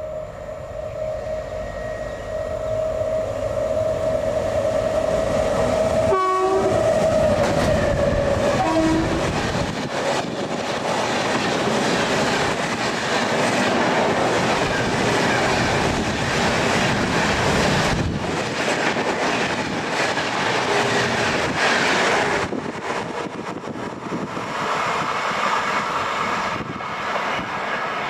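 A train horn holds one long steady note for the first several seconds as an express train approaches, then the train passes at speed with a loud rush and clatter of wheels on rail that lasts most of the rest.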